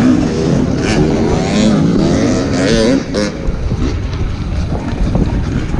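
Dirt bike engine revving up and down as the rider works the throttle through a hard enduro section, loudest in the first three seconds, then dropping back to a lower, uneven running.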